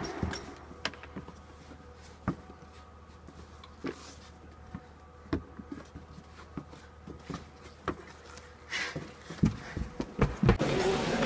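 Scattered knocks and thumps of someone sitting on a wooden deck and pulling on rubber boots, over a faint steady hum. A few louder thumps near the end as they walk in through a door.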